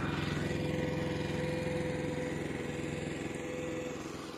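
Tractor's diesel engine running steadily, with a faint steady whine over it for most of the time.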